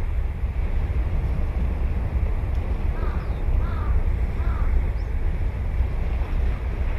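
Steady low rumble of surf and wind buffeting the microphone, with a crow cawing three times from about three seconds in.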